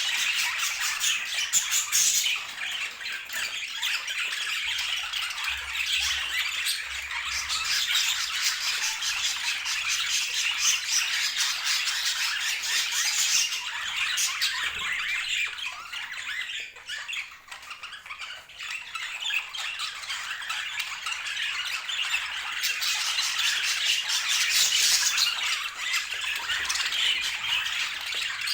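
Budgerigars chirping and chattering in a dense, continuous stream of quick high calls, which drops quieter for a moment a little past the middle.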